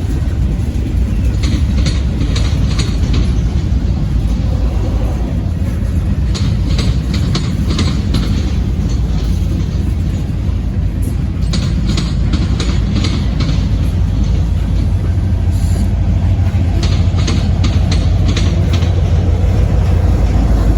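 Freight train rolling past with a steady low rumble, its wheels clicking over rail joints in clusters every few seconds.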